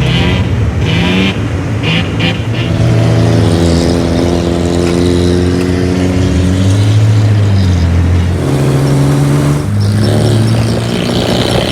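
Lada Zhiguli engine sounding through its newly built exhaust with a muffler and resonator. The engine runs at changing revs, its pitch stepping up and down several times, with quick rev rises and falls near the end.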